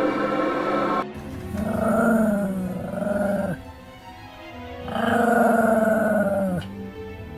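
Music cuts off about a second in, followed by two long growl-like animal calls, each drawn out for about two seconds and dropping in pitch at the end.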